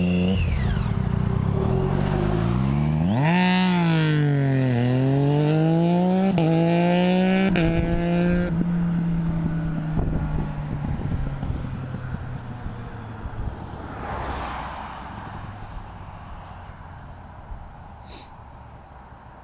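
Triumph Daytona 675 three-cylinder sportbike with a Jardine slip-on exhaust, revving up and down and then accelerating with two quick upshifts, the pitch dropping sharply at each gear change. After that the engine holds a steady note and fades away into the distance.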